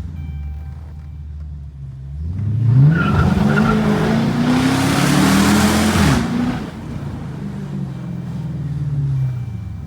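A 2012 Dodge Charger R/T's 5.7 L HEMI V8, exhaust straight-piped with the resonator and mid-muffler deleted, pulls hard under full throttle. Starting about two seconds in, the revs climb with a rising exhaust note and a loud rushing noise at the top. The sound drops off suddenly about six seconds in as the throttle comes off, and the engine then runs on at lower revs, slowly fading.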